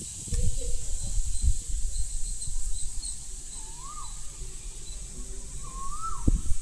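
Low knocks and bumps of handling, then a bird's short whistled call, rising then falling, heard twice about two seconds apart.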